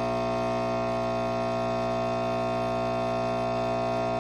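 Nespresso Inissia pod coffee machine's vibratory pump running steadily during a large pour, a loud, even buzzing hum with no change in pitch. The machine is running as normal, just a little loud.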